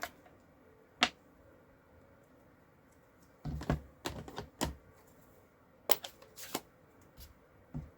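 Scattered sharp clicks and taps of ink pads and rubber stamps being handled on a craft desk. There is one click about a second in, then clusters of taps from about three and a half seconds on.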